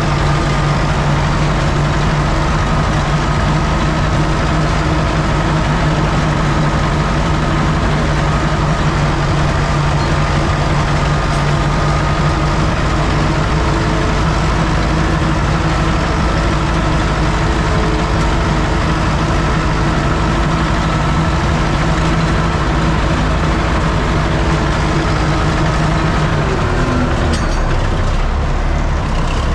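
UTB Universal U650 tractor's four-cylinder diesel engine running steadily under load while pulling a cultivator. The engine note drops near the end.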